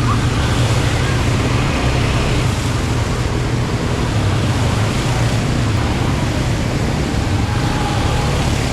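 Quad bike (ATV) engine running steadily under way, with wind rushing over the microphone.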